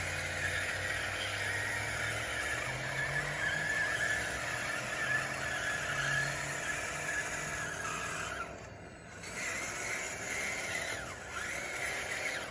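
Electric drive motors and gears of an RC bulldozer whining steadily as it pushes dirt. About eight and a half seconds in it stops briefly, then whines again with short rises and falls in pitch as it changes speed.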